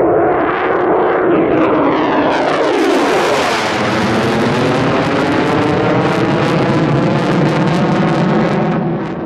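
F-35 Lightning II fighter jet's engine as it flies past, loud. Sweeping tones fall in pitch about a second in, then a harsh hiss builds and holds before dropping away near the end.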